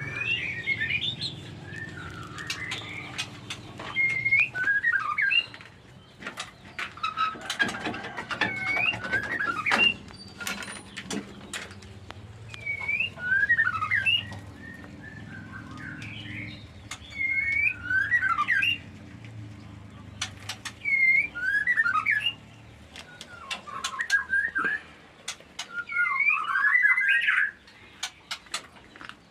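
White-rumped shama whistling short curling phrases, one repeated every few seconds, over sharp clicks and a low steady hum.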